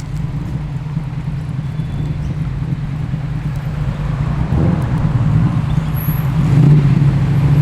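Car engine idling low and steady as the car rolls slowly in. It grows louder from about halfway through, peaking near the end.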